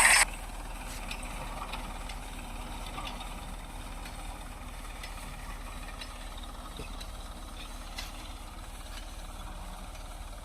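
Tractor engine running steadily and fairly quietly, with a few faint clicks. It follows a louder sound that cuts off suddenly just after the start.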